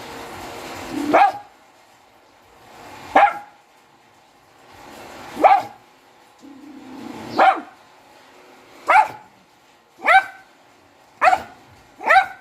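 Dog barking: eight single sharp barks, spaced about two seconds apart at first and coming faster, about a second apart, near the end.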